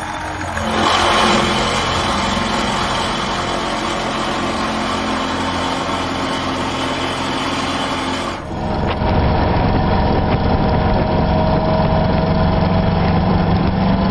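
Excavator with a hydraulically driven vibratory pile hammer running, a steady mechanical hum. The sound changes abruptly about eight seconds in and is a little louder afterwards.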